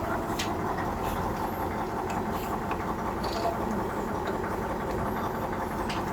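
Heavy truck diesel engine running steadily, with faint knocks now and then.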